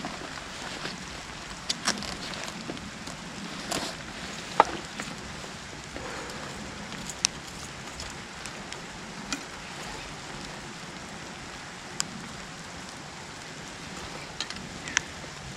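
Steady rain falling in woodland, with occasional sharp, louder drops every second or so.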